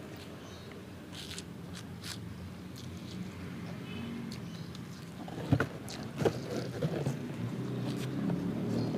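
Person eating fried chicken close to the microphone: chewing and mouth sounds with a few sharp clicks, the loudest just past the middle, over a low steady hum.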